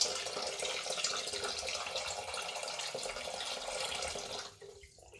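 Water running from a kitchen tap, a steady splashing rush that stops about four and a half seconds in.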